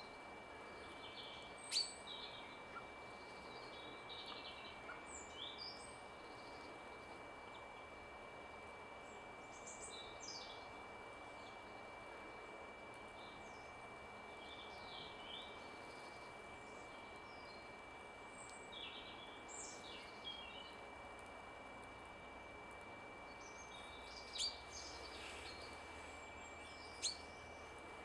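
Faint chirps and short calls of small birds, scattered through, with a few sharp clicks about two seconds in and near the end. A thin, steady high tone runs underneath.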